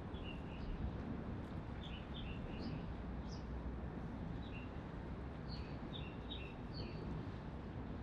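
Small birds chirping in short, high calls that come in little runs throughout, over a steady low background rumble of harbourside ambience.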